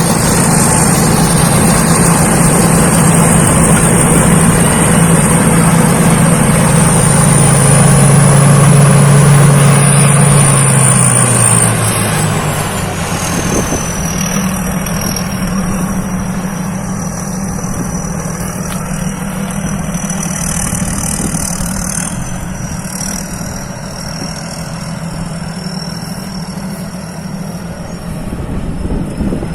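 Rice combine harvester's engine running loud and steady with a high whine. About twelve seconds in, the engine note and the whine both drop in pitch and it gets quieter.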